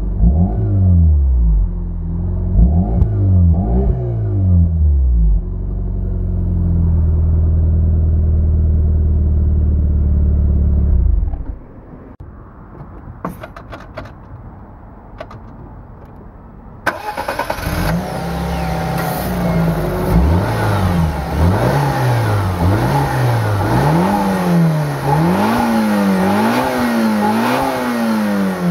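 Daihatsu Copen's 660cc JB-DET turbocharged inline-four engine and muffler revved in short blips, then held at a steady speed until it cuts off about 11 seconds in. After a few seconds of faint sound with some clicks, the engine is revved again in quick repeated blips, rising and falling about once a second and reaching higher revs toward the end.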